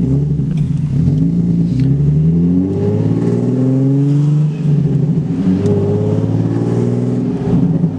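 Infiniti G37's 3.7-litre V6 exhaust accelerating, heard from inside the cabin, with the mufflers unbolted from the Y-pipe so the exhaust runs through the gap. The engine note climbs in pitch and drops back twice, as with upshifts.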